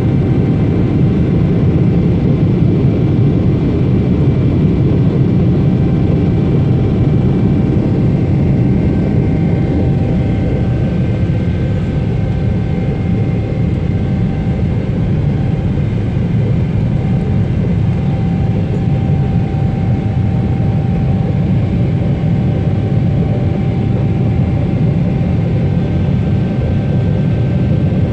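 Boeing 777 airliner cabin noise: a steady, even rumble of engines and airflow heard from inside the cabin, with faint steady whining tones above it.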